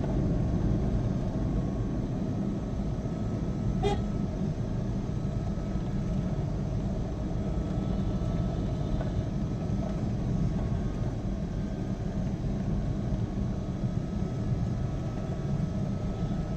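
Vehicle driving on a road: a steady low engine and road rumble with a faint steady whine above it, and a single click about four seconds in.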